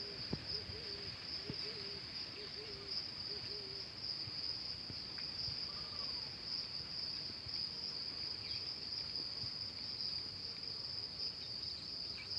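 Steady, high-pitched trilling of a chorus of insects, unbroken throughout. During the first few seconds a second animal gives a quick series of short, low, wavering calls.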